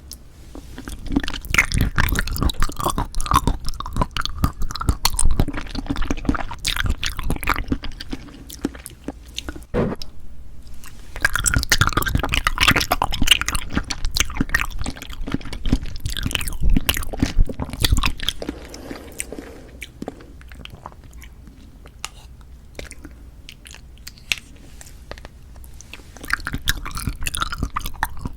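Cup jelly being chewed close to an ASMR microphone: wet, squishy clicks and smacks in dense bursts. The chewing eases off to a quieter stretch past the middle and picks up again near the end.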